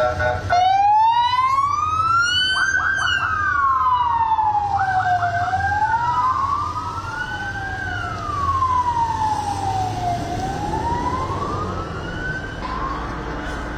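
Emergency vehicle sirens wailing, slowly rising and falling, with more than one siren overlapping and a few quick yelp chirps early on. A low, steady vehicle rumble runs underneath.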